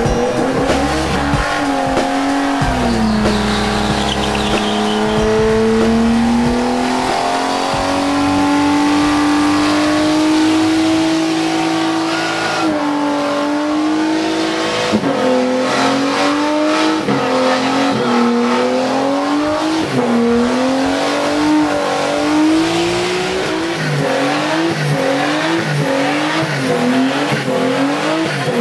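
Drift car's engine at high revs with tyres squealing: held near steady for several seconds, then revved up and dropped again and again, the pulls coming quicker near the end.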